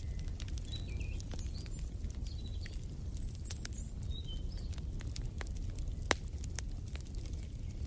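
Wood fire in a fireplace crackling, with many sharp pops over a low rumble; one louder pop about six seconds in. Short high bird chirps sound faintly through the first half.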